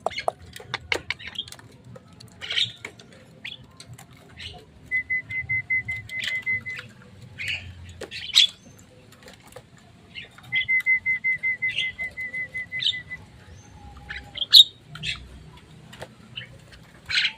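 Caged Javan mynas and other birds calling: scattered short chirps and squawks, with two runs of rapid, evenly repeated notes held at one pitch, about five seconds in and again near the middle.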